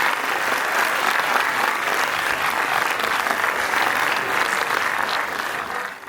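Audience clapping steadily, fading out near the end.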